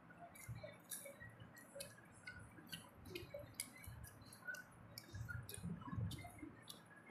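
Faint eating sounds of children chewing momos: mouths smacking with many soft, irregular clicks, and a few low soft knocks about five to six seconds in.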